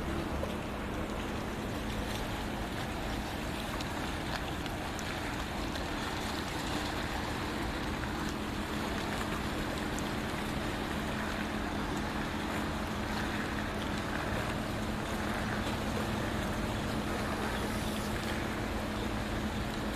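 Passenger boat under way: a steady engine hum with water rushing past the hull and wind on the microphone.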